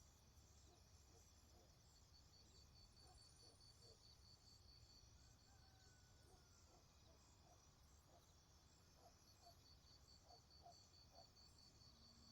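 Faint forest ambience: insects trilling steadily in high, pulsing lines, with soft short calls scattered through it, a little more of them near the end.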